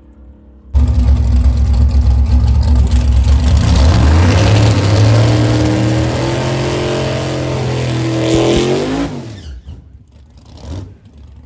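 Race car engine at full throttle, starting abruptly about a second in, its pitch climbing as it accelerates, then falling away and fading out after about nine seconds.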